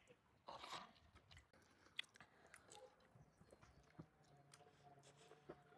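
Near silence with faint chewing and small clicks of people eating.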